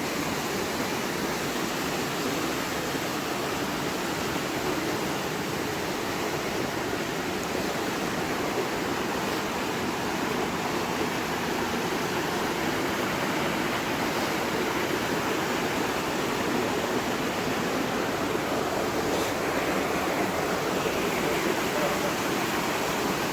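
Steady rush of a rocky mountain stream, an even hiss of flowing water that holds the same level throughout.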